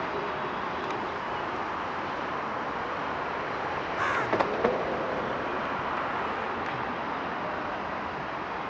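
Steady rushing noise of jet aircraft engines, with a short harsh bird call about four seconds in.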